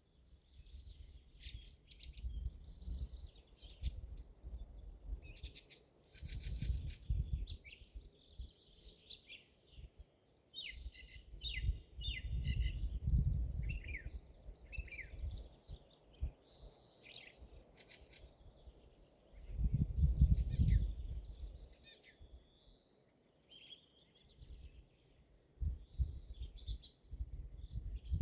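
Several wild songbirds singing and calling in spring woodland: a mix of short chirps, quick runs of notes and brief trills overlapping one another. Bursts of low rumbling noise come and go several times, the loudest about two-thirds of the way through.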